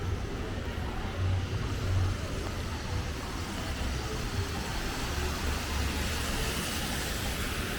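Street traffic on wet pavement: a steady low rumble with tyre hiss that swells in the second half as a car passes.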